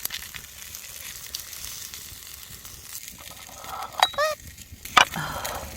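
Chicken galbi sizzling steadily on a hot maekbanseok stone slab over a wood fire, nearly cooked. There are two sharp clicks, about four and five seconds in.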